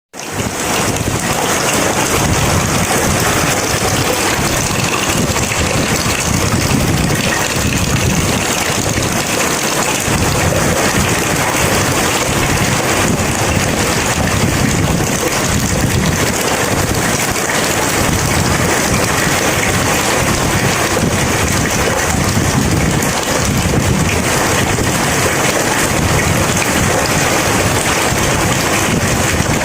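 Heavy, steady rain falling, with thunder rumbling low and rising and falling underneath it.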